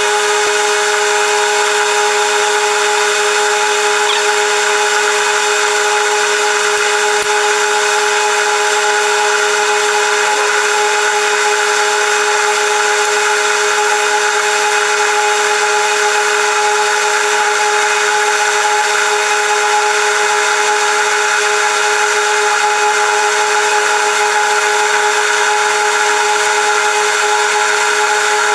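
A workshop power tool running at constant speed: a steady whine of a few fixed tones over a hiss, with no change in load.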